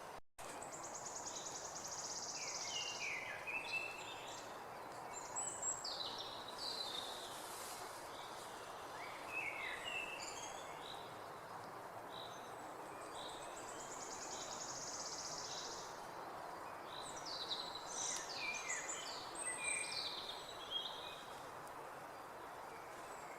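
Several birds chirping and calling in short, scattered phrases over a steady background hiss, with a longer buzzy trill near the start and again about midway.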